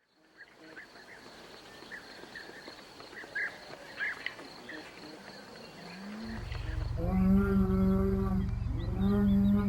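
A large animal calling twice, two long steady-pitched calls over a low rumble in the second half, after a few seconds of faint short high chirps.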